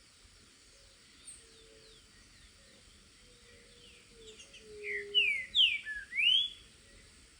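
Green-winged saltator (trinca-ferro) singing a short phrase of loud, slurred whistles, starting about five seconds in. Fainter high chirps of other birds and a few low whistled notes come before it.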